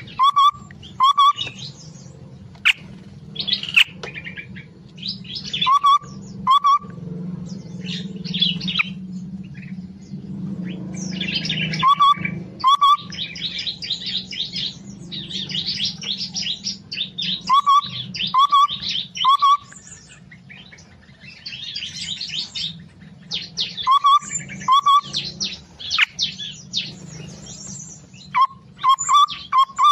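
Small aviary birds chirping and twittering. Short clear call notes, often in pairs or threes, repeat every few seconds over stretches of busy high chatter, with a steady low hum underneath.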